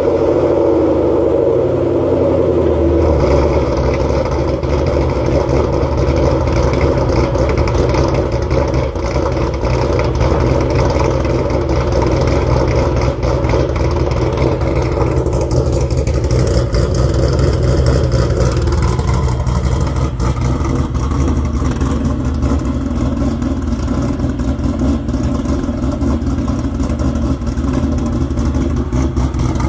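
S550 Ford Mustang GT's 5.0 V8 idling through its exhaust, running a ghost cam tune that gives the idle an uneven, choppy lope.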